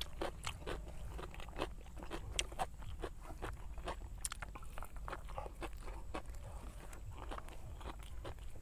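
Close-miked chewing of a mouthful of pork biryani, with many irregular wet mouth clicks and smacks.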